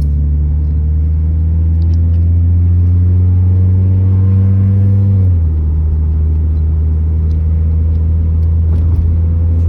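Honda Civic engine with its new aftermarket exhaust running, a steady drone that climbs slowly in pitch for about five seconds, then drops suddenly about halfway through and holds at a lower pitch.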